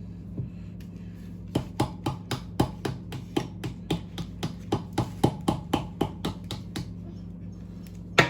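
A digging tool tapping and chipping at the hard shell of a toy volcano excavation kit, about four sharp taps a second for several seconds, then two louder knocks near the end, over a steady low hum.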